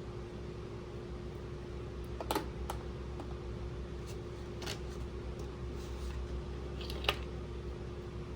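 A few light clicks and taps of small plastic toy pieces being handled, the sharpest about two seconds in and again near the end, over a steady low hum.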